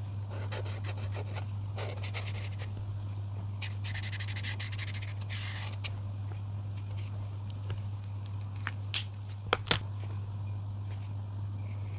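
Colouring strokes scratching back and forth on paper in quick runs, then a few sharp taps or clicks near the end, over a steady low hum.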